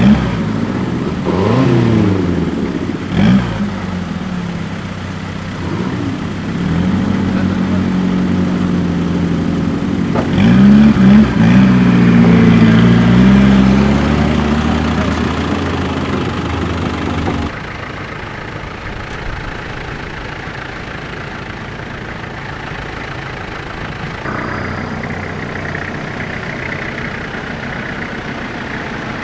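Off-road 4x4 engine revving repeatedly, its pitch rising and falling, close and loud. About two-thirds of the way through it cuts off suddenly and gives way to a quieter, steady engine running.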